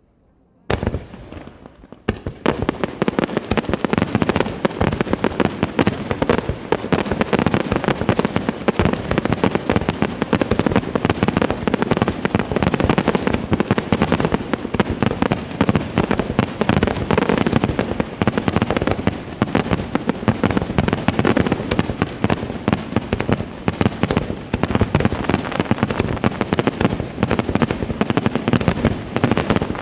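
Fireworks display: a single bang about a second in, then from about two seconds in a dense, continuous barrage of rapid bangs and crackling.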